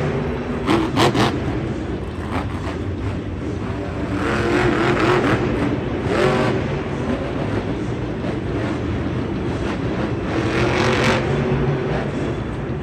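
Monster truck engine running hard, revving up and down in repeated swells, with a few sharp bangs about a second in.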